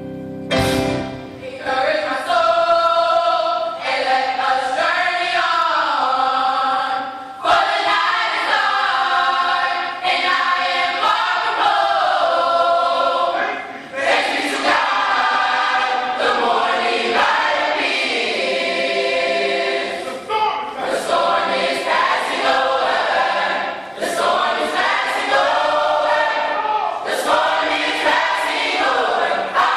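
Youth gospel choir singing.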